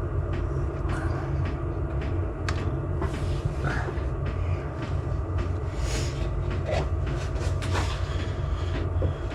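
A steady low rumble and hum, with many light clicks and taps scattered over it, as small parts are handled during work on the drain plug.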